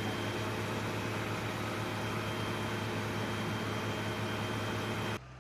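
Steady machinery drone: a low hum under a broad hiss. It cuts off abruptly near the end, leaving a fainter hum.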